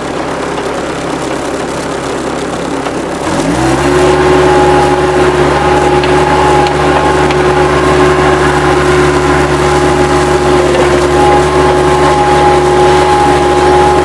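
Bobcat 763 skid-steer loader's diesel engine running, revving up about three seconds in and then holding steady at high revs, with a steady whine over the engine.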